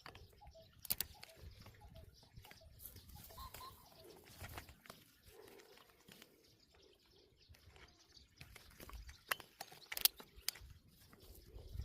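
Birds calling faintly in short repeated notes, with a few sharp clicks or knocks, the loudest about ten seconds in.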